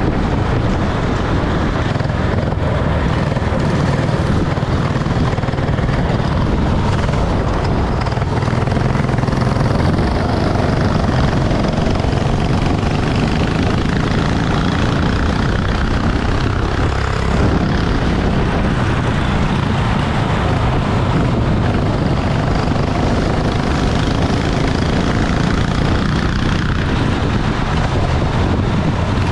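Kart engine running steadily at speed under a dense, unbroken rush of noise, with no clear rise or fall in revs.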